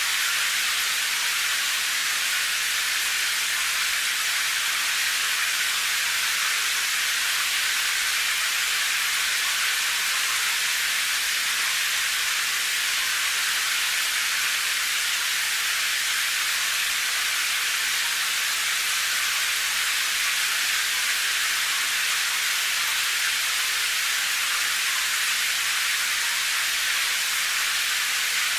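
Steady rain: an even, unbroken hiss with no separate drops, thunder or changes, weighted toward the higher pitches.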